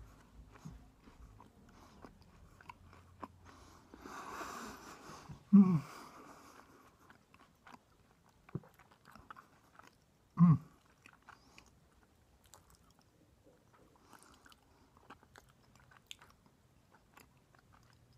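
Close-up sounds of a person eating: soft chewing, biting and small mouth clicks, with a crunchier stretch about four seconds in. Twice, at about five and a half and ten and a half seconds, a short, loud hum drops in pitch.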